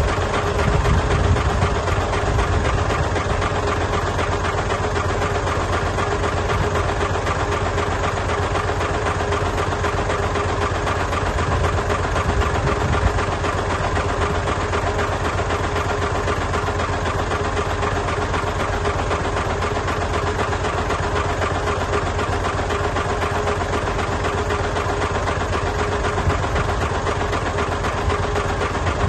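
Heavy diesel engine of earthmoving equipment running steadily, a low pulsing rumble with a steady whine over it.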